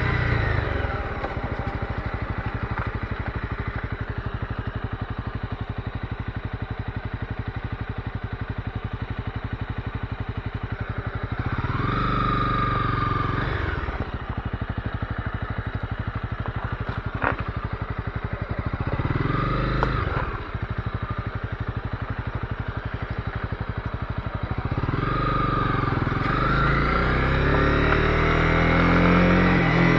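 Honda CB250R's single-cylinder engine idling with an even, rapid pulse, revved up and back down three times: about twelve seconds in, around twenty seconds in, and over the last five seconds.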